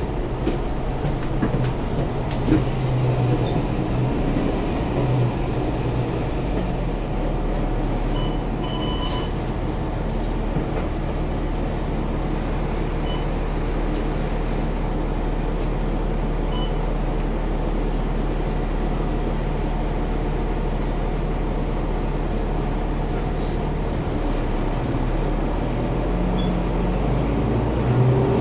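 Bus engine idling steadily, with a few brief high beeps about eight, nine and sixteen seconds in.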